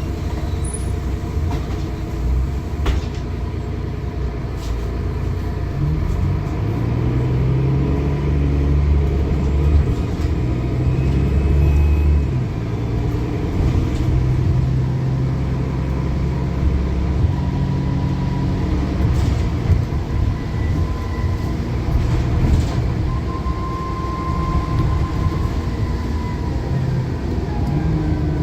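Diesel engine of a double-decker service bus under way. Its note climbs and drops several times as it pulls away and changes gear, with a thin, high turbocharger whistle over it.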